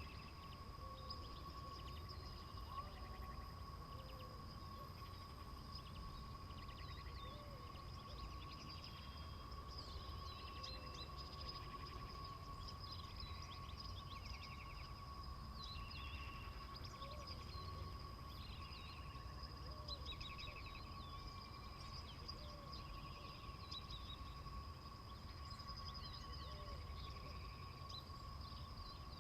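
Faint field recording of many small birds chirping, scattered short calls throughout, over a low rumble and two steady high tones.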